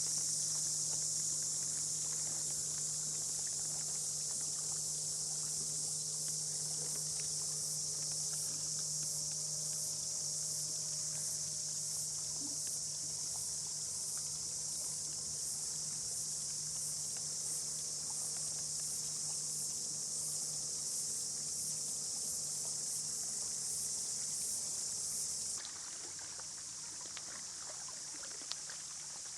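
Dense, steady, high-pitched chorus of insects shrilling, with a faint low steady hum beneath; the chorus cuts off suddenly near the end.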